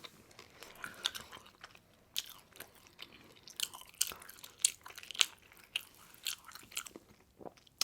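A person chewing a chicken wing close to the microphone: irregular, crisp mouth clicks and crunches, several a second.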